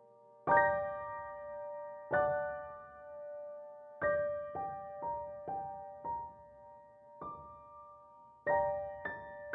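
Slow piano background music: single notes and chords struck roughly every half second to two seconds, each left to ring and fade.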